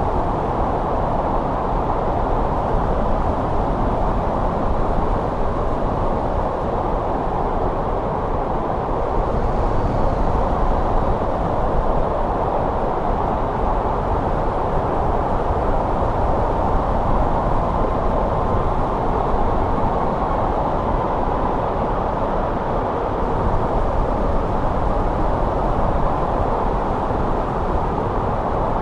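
Steady snow wind, a loud, even rushing noise with a deep rumble beneath it and no gusts or breaks.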